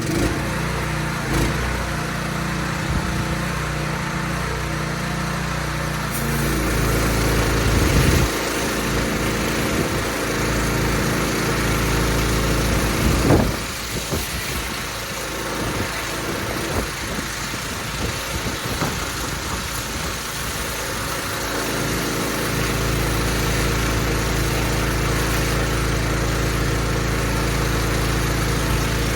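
Pressure washer's engine running, with a dense hiss over it. The sound starts abruptly at the outset. From about a third of the way in the engine note becomes uneven, with one brief louder surge in the middle, then settles back to a steady run for the last part.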